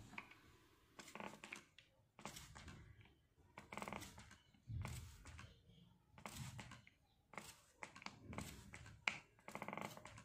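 Hand spray bottle spritzing water in short hissing squirts, about one a second, as budgies are given a spray bath.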